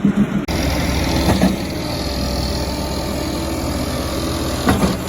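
Diesel engine of a concrete truck running steadily, beginning abruptly about half a second in, with brief louder clatters twice.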